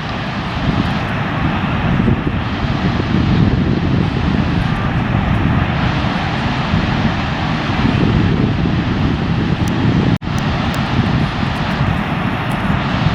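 Wind blowing across the microphone: a steady, noisy rumble, weighted low, that drops out for an instant about ten seconds in.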